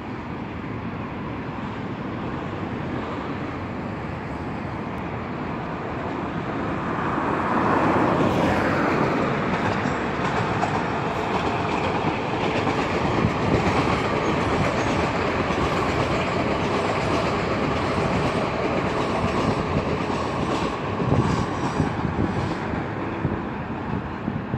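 Ezh3/Em-508T metro train running past on surface track. It grows louder about seven seconds in, then keeps up a steady running noise with clicking wheels over the rail joints.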